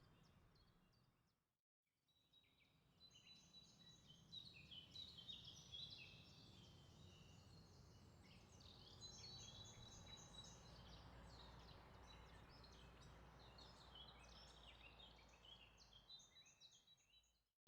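Faint birdsong: a dense chatter of short chirps and twitters from small birds over a low rumble. It cuts out briefly about two seconds in, then returns and fades out at the very end.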